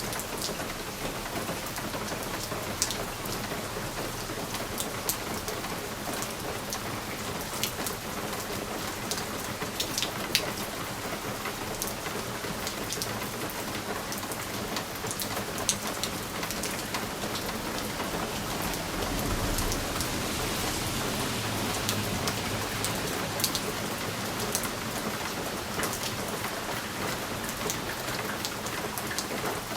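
Steady rain pattering on a window pane, with frequent sharp ticks of drops hitting the glass. A low rumble swells for a few seconds past the middle.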